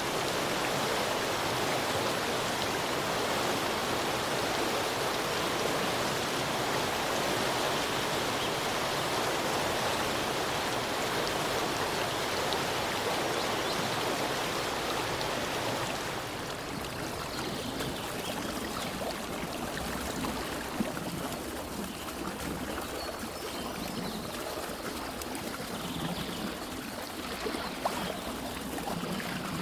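Steady rush of flowing stream water. About halfway through it drops to a softer, thinner wash with a few faint high chirps and small clicks.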